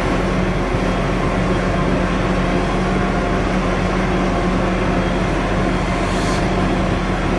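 Large farm machinery's diesel engine running steadily at working speed, a constant hum. A brief hiss about six seconds in.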